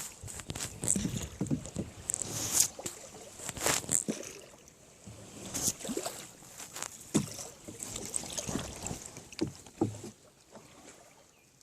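Water splashing and sloshing with irregular knocks and clicks, dying down near the end.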